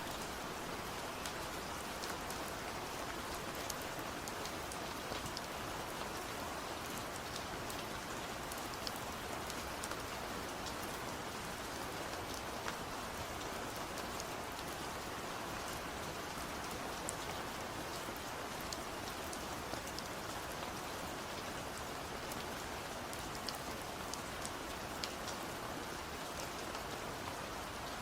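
Steady rain falling, an even hiss with scattered individual drops ticking against a surface.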